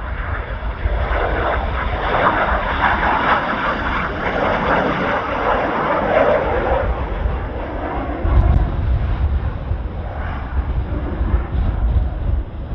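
Kawasaki T-4 jet aircraft flying past: a jet roar that swells, drops lower in pitch as it goes by, then fades, with wind rumbling on the microphone.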